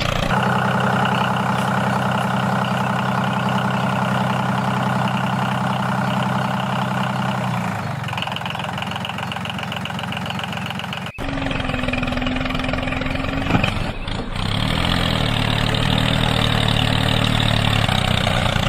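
The motor of a homemade mini tractor running steadily. Its tone changes about eight seconds in, cuts off abruptly at about eleven seconds, then runs steadily again.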